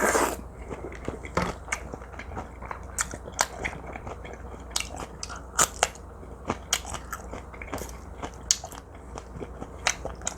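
Close-miked chewing of teriyaki-marinated pork neck stir-fried with green onion and onion: irregular wet mouth clicks and smacks, with a louder bite right at the start.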